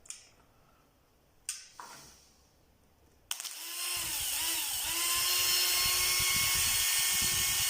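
Two light clicks, then a freshly rebuilt power-tool brush motor switches on a little over three seconds in, spins up with a wavering rise in pitch and settles into a steady high whine, running normally.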